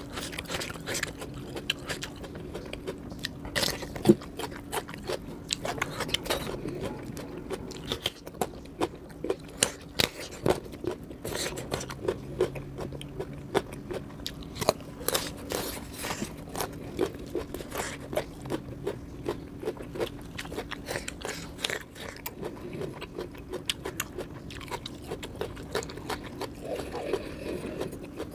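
Close-up eating sounds: a person biting and chewing, with many irregular crunches and wet mouth clicks, mostly raw cucumber and carrot. A faint steady hum runs underneath.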